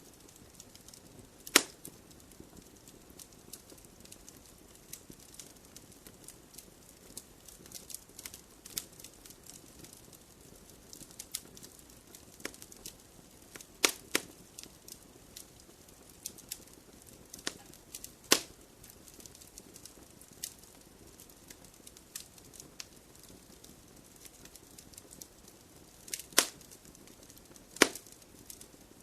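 Wood fire crackling in a fireplace: a steady scatter of small ticks, with a few louder pops, one about a second and a half in, two in the middle and two close together near the end.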